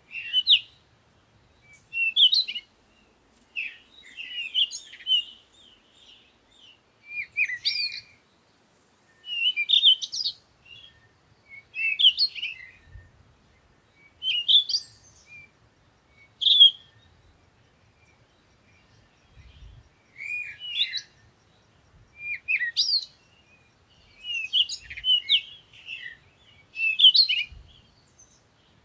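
Birds chirping in short, quick phrases of high, rising and falling notes, a new phrase every second or two with short pauses between.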